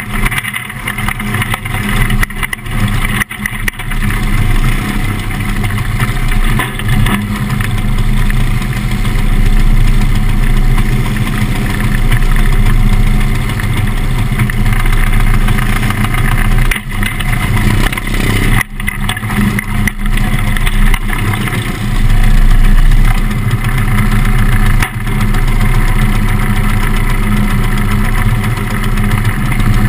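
Engine running at a steady idle, heard close up from the cockpit of a winged dirt-track sprint car, with a few brief dips in level.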